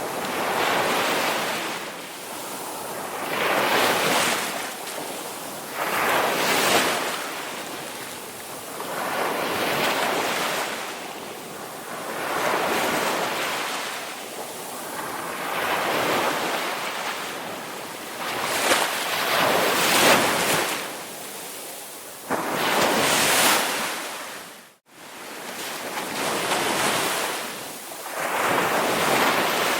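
Ocean waves surging and washing in, one swell of surf after another about every three seconds. There is a split-second break in the sound about five seconds before the end.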